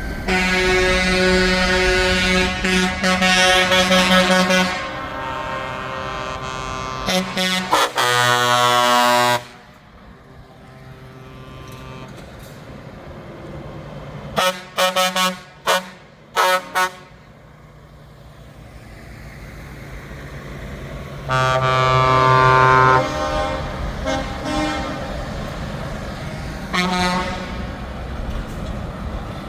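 Truck air horns blasting as trucks pass: two long blasts early, a run of about five short toots midway, another long blast later and a brief toot near the end, over heavy truck engines running.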